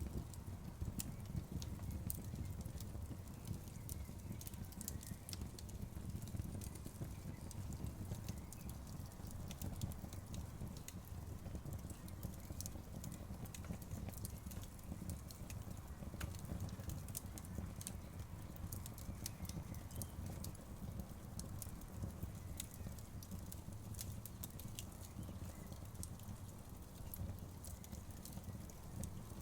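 Campfire crackling: irregular sharp pops and snaps of burning wood, many each second, over a steady low rush of running river water.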